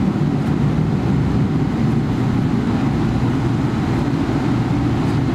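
Steady low rumble of a Boeing 777-300ER's engines and airframe heard inside the passenger cabin.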